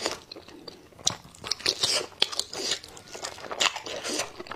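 Biting into and chewing a braised pig trotter: an irregular run of crisp clicks and crunches from the mouth.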